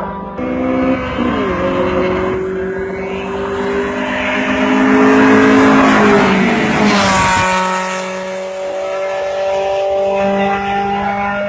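A car engine under hard acceleration: its pitch drops once about a second in, as at a gear change, then climbs. It grows loudest in the middle, then the pitch falls sharply as the engine lets off and settles to a steady run.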